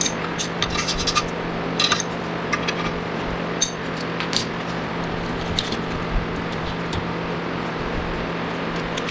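Hand tools on metal in a workshop: light clinks and clicks at irregular intervals, most of them in the first half, over a steady low hum.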